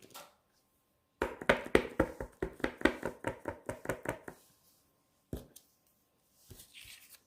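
A quick run of light knocks on a hard tabletop, about five or six a second for some three seconds, then one more knock a second later: hands tapping and handling small paper-crafting tools and pieces.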